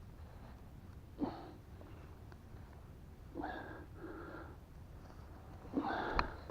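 A man breathing hard, with three breathy exhalations: about a second in, around the middle, and near the end, followed by a sharp click.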